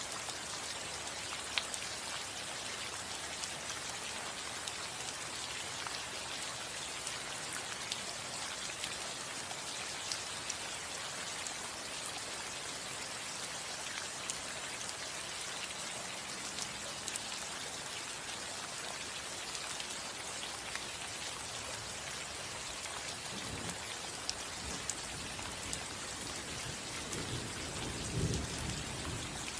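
Steady rain on a roof, a dense hiss with single drops ticking through it. Low rumbles of thunder come in near the end, twice, the second one louder.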